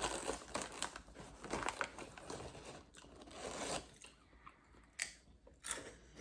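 Crunchy chips being bitten and chewed close to the microphone, a dense crackling crunch with a few sharp crisp snaps later on.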